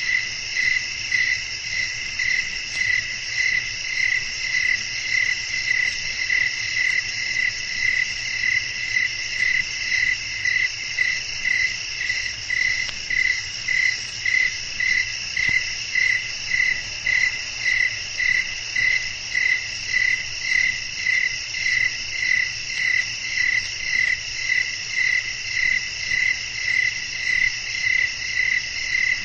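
Crickets chirping in a steady rhythm, about three chirps every two seconds, over faint low wind noise.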